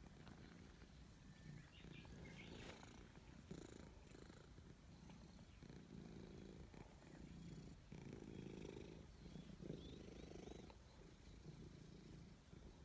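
Domestic cat purring, a faint low rumble that swells and fades in pulses about a second long with each breath.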